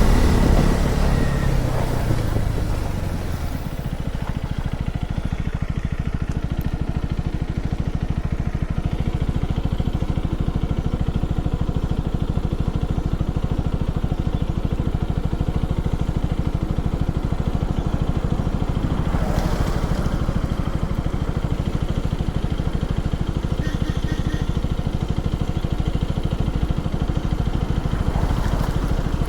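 KTM 250 Duke's single-cylinder engine winding down as the bike slows over the first few seconds, then idling steadily. A brief rush of noise swells and fades about two-thirds of the way through, and again near the end.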